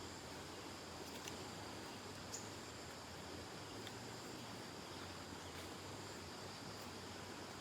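Steady high-pitched insect chorus over a faint outdoor hiss, with a few faint clicks.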